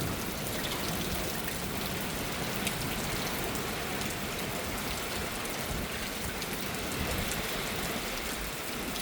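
Wind gusting through elm trees, a steady rustling hiss of leaves with fine crackles and a low rumble of wind.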